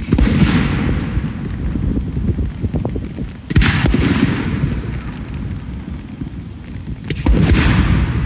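Fireworks display: three aerial shells bursting about three and a half seconds apart, each sharp boom followed by a long low rumble that dies away.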